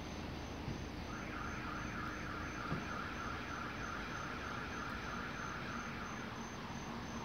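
Amtrak train standing at the platform, its ACS-64 electric locomotive and Amfleet coach giving a steady low hum. A higher, buzzing pulsed tone comes in about a second in and stops about a second before the end.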